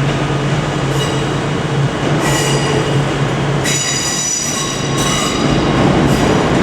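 A pair of Class 156 diesel multiple units arriving slowly, their underfloor diesel engines giving a steady low hum. A high-pitched metallic squeal of several tones at once comes in about two seconds in and gets louder from about halfway as the train rolls to a stop.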